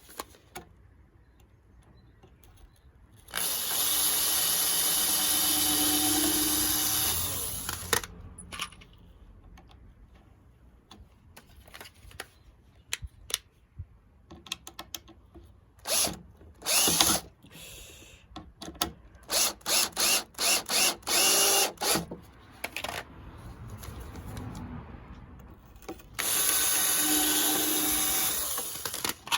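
Power tool motor running in two long steady runs of about four and three seconds, each starting and stopping abruptly. Between them come short bursts, including a quick string of about eight pulses.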